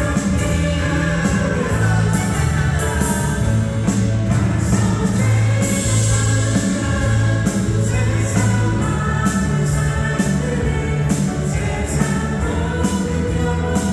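Contemporary Christian worship song: singing over band accompaniment with sustained bass notes and a steady beat.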